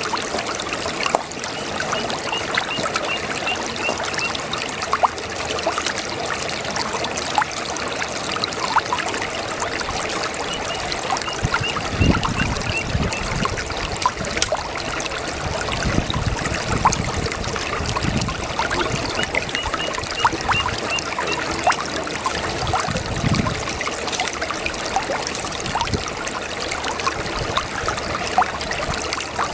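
Small brook babbling and trickling steadily over stones, with many small splashes and a few deeper gurgles near the middle. A faint high chirp, repeated quickly in short runs, recurs every several seconds.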